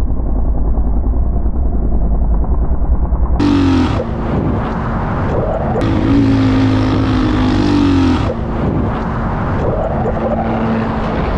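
Motorcycle engine running under way with heavy wind rumble on the microphone. The sound changes abruptly about three and a half seconds in, and the engine pitch rises and falls a couple of times later on.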